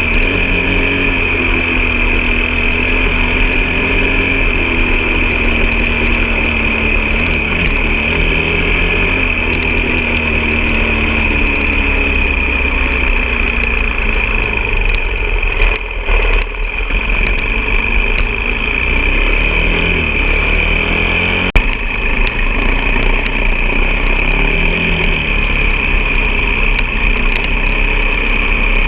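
Vehicle engine running steadily, its note slowly rising and falling with the throttle over a constant low rumble. A single sharp knock comes about two-thirds of the way through.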